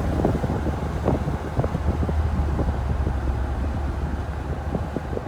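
Mercedes-Benz R129 500SL's V8, mufflers deleted, cruising steadily at about 55 mph with the top down: a low, even exhaust drone with no revving, mixed with wind and road noise.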